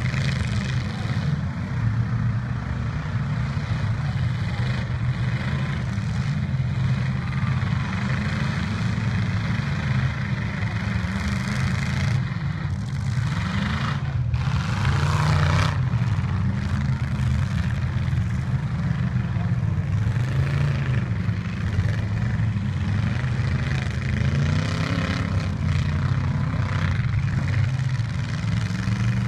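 Engines of several demolition-derby pickup trucks running and revving, a steady low rumble with revs rising and falling.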